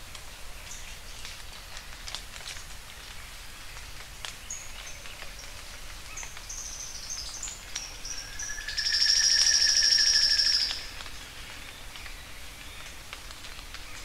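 Sharp-billed treehunter singing: a few short, thin, high notes, then a loud, fast, high trill lasting about two seconds, over a steady background hiss.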